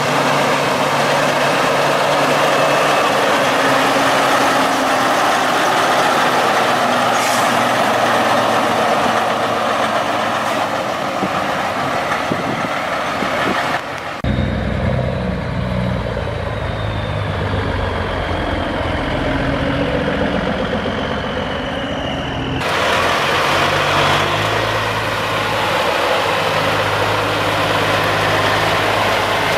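Heavy truck engines running, with a steady low engine hum; the sound changes abruptly about halfway through and again later, as the footage moves from one truck to another.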